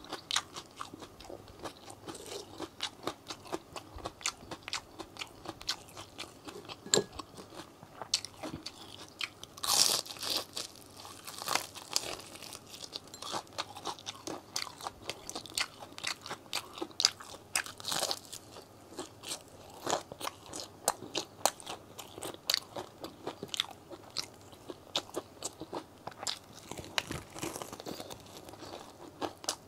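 Close-miked crunching and chewing of crispy KFC fried chicken, the breading crackling in quick, irregular crunches, with a few louder bites.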